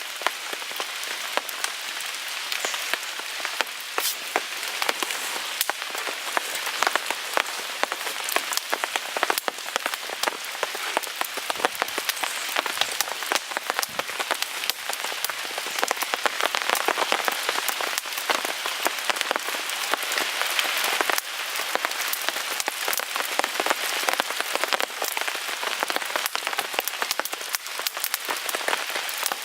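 Steady rain pattering on a tarp, a dense even hiss of drops with many sharp ticks scattered throughout.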